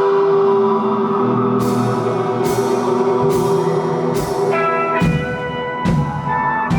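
Live rock band playing an instrumental passage: sustained guitar notes over a steady drum beat with a hit a little under once a second, the kick drum getting heavier about five seconds in.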